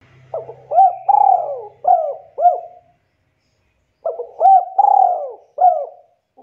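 Spotted dove (tekukur) cooing: two phrases of several rolling coos each, about two and a half seconds long, separated by a pause of about a second.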